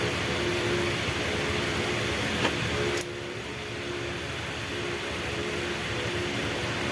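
Steady machine hum and hiss with faint broken tones. There is a click about two and a half seconds in, and the level drops abruptly at three seconds.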